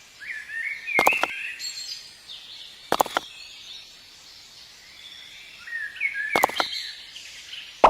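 Birds chirping in two short bursts of quick, sliding high calls, the first near the start and the second around six seconds in. Three sharp taps or knocks cut through, about one, three and six and a half seconds in.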